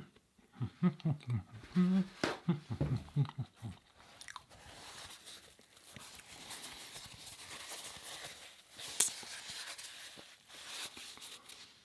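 Close-miked chewing and wet mouth sounds of someone eating a chocolate cupcake, with small clicks and smacks throughout. In the first few seconds there are low voiced mumbles through a full mouth.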